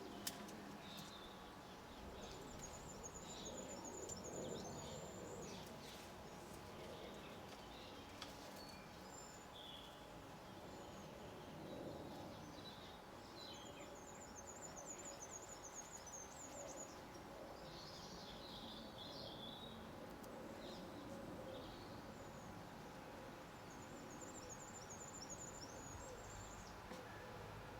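Garden birds singing and chirping faintly over a steady low background hum, with a high trilling song phrase heard three times and scattered short calls between.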